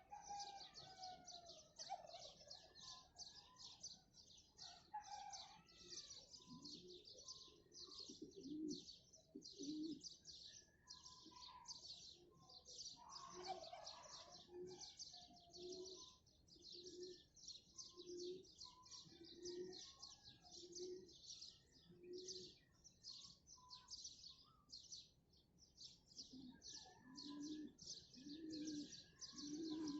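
Faint birdsong at dawn: many small birds chirping in a dense, unbroken chorus. Beneath it a dove coos in runs of low, evenly repeated notes, one about every second in the middle and again near the end.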